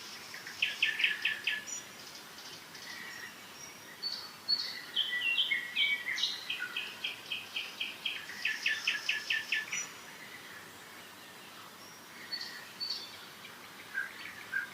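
Birds singing: bursts of rapid repeated notes in trills and scattered chirps, with a few quieter pauses between phrases.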